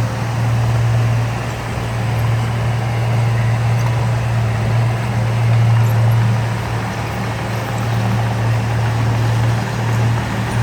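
Heavy diesel engine of earthmoving machinery running steadily, a loud low drone with little change.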